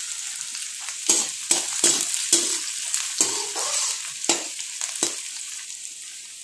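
Chopped onion, garlic and cumin seeds sizzling in hot oil in a metal kadai, with a perforated steel spatula scraping and stirring against the pan about seven times. The sizzle eases toward the end.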